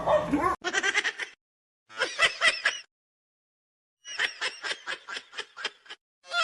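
Rapid giggling laughter, quick short bursts about five a second, in three runs broken by sudden silences.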